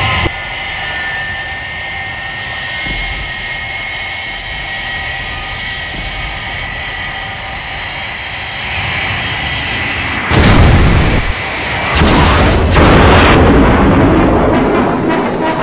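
Steady jet-engine drone of Thunderbird 2 in flight, a television sound effect. About ten seconds in comes a sudden loud boom, then a second heavy crash about two seconds later that runs on as a loud rumble.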